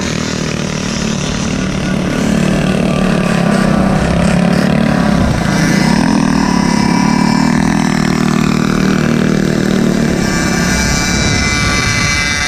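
Small engines of mini bikes and stand-up Goped scooters running under way, their pitch rising and falling as they ride.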